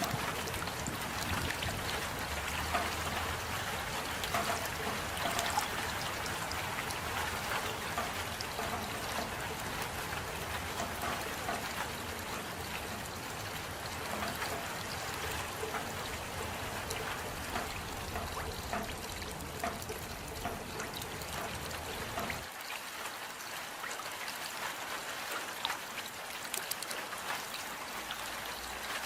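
Steady rain, a continuous hiss with many individual drops pattering. A low rumble underneath drops away about three-quarters of the way through.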